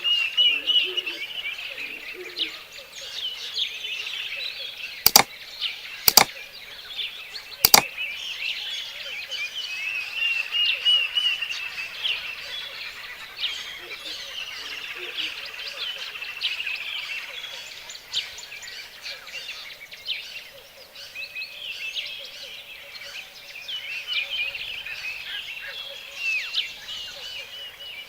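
Many birds singing and chirping at once in a dense, continuous chorus of high, quick calls. Three sharp clicks sound about five, six and seven and a half seconds in.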